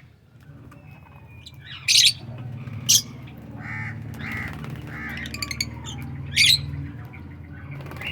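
Aviary birds calling: a few loud, harsh squawks, about three, over a run of softer repeated chirps.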